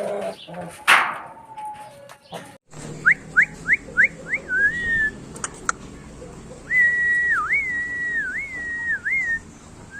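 A person whistling a tune: a run of quick rising whistles, then long held notes that dip and come back, starting about three seconds in. Before that comes a short stretch of mixed noise with a sharp sound about a second in.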